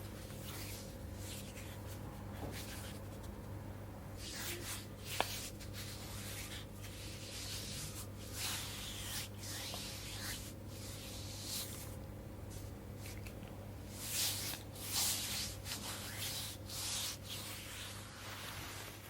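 Close-up rubbing of hands over oiled skin and fabric: soft swishing strokes at irregular intervals, over a steady low hum, with one sharp click about five seconds in.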